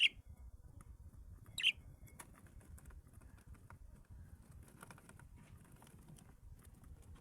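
Two short, sharp chirps from small cage birds, one right at the start and one under two seconds in, over faint scattered ticking and scratching of birds moving about the cage.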